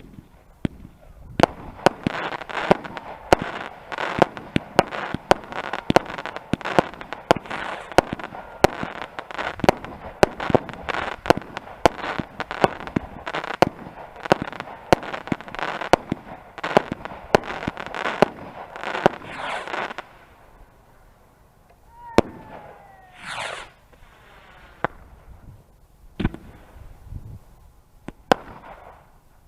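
Fireworks going off: a rapid barrage of sharp bangs and crackles for about twenty seconds. Then a short lull with a brief whistle and a few scattered bangs near the end.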